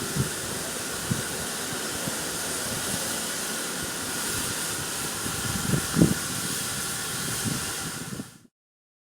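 Steam locomotive letting off a steady hiss of steam, with a few low thuds, the loudest about six seconds in. The sound cuts off abruptly near the end.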